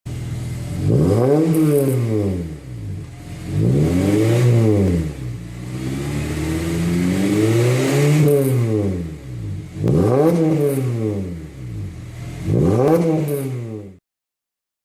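Honda Civic Type R FD2's K20A four-cylinder engine breathing through an aftermarket exhaust, revved five times, the pitch climbing and falling back each time; the third rev, around eight seconds in, is held longest. The sound cuts off about a second before the end.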